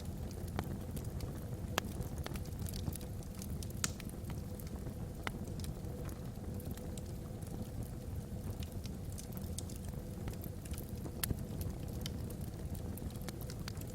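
Log fire burning in a fireplace: a steady low rumble of flames with irregular sharp crackles and pops from the burning wood.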